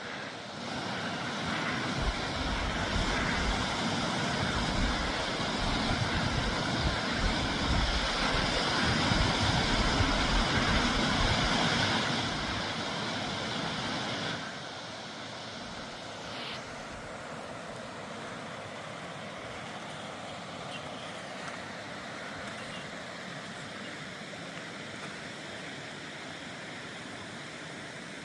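Gusty wind buffeting the microphone over a steady rushing hiss; the buffeting eases about 14 seconds in, leaving the even hiss.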